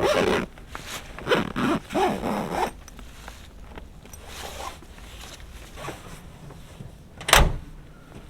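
A zipper pulled in several quick rasping strokes, followed by quieter handling noise and a single sharp thump about seven seconds in.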